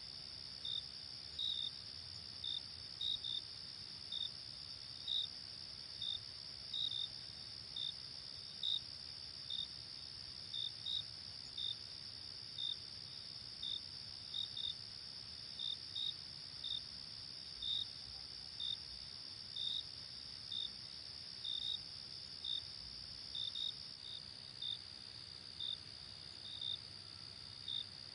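Night insects, cricket-like: a steady high trill with separate short, high chirps one or two a second, irregularly spaced. Near the end the steady trill drops slightly lower.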